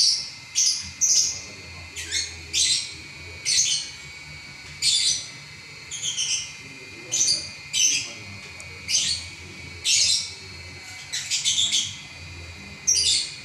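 Lovebird in continuous chattering song ('ngacor'): a long run of short, sharp, shrill calls about once a second, some doubled or in quick clusters.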